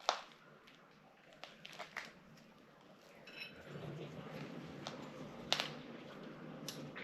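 Small metal hand tools clinking as they are handled and set down: sharp clinks, the loudest right at the start and another about five and a half seconds in, with a soft rustle of handling from about halfway.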